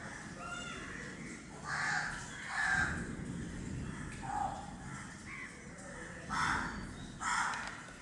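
Harsh bird calls: about five short, rasping calls spaced unevenly over a few seconds, over a steady low background rumble.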